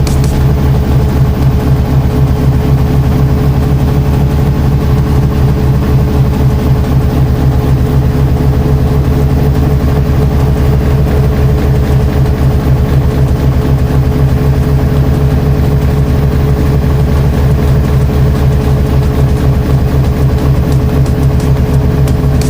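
A running motor's loud, steady hum, with a low drone and a steady higher tone that do not change.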